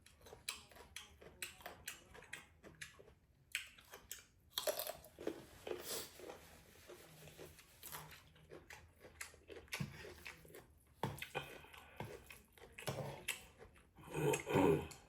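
Close-up eating sounds of someone eating spicy noodles: irregular chewing with many small wet smacking clicks, and a louder burst of sound near the end.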